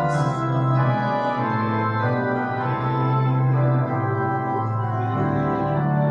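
Church organ playing slow, sustained chords, as in a service prelude.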